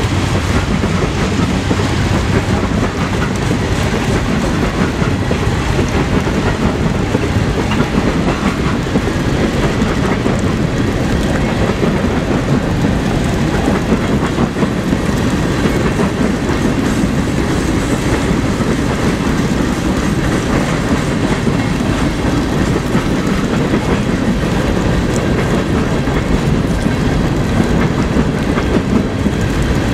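CSX freight train's cars rolling past: a steady rumble of steel wheels on rail with clickety-clack over the rail joints, unbroken throughout.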